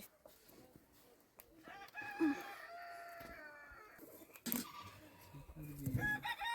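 A rooster crowing: one long call about two seconds in, with another crow starting near the end. A sharp knock about halfway through.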